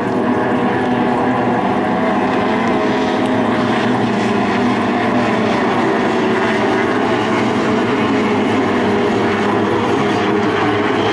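Racing boat engine running in a steady, loud drone, holding an even pitch.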